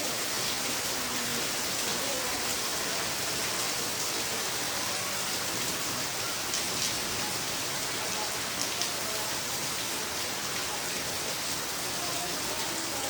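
Heavy rain pouring steadily onto surfaces, with a few sharper drop hits a little past the middle.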